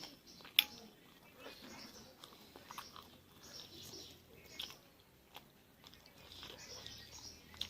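A person chewing food, with wet mouth and lip smacks and scattered short clicks; one sharp click about half a second in.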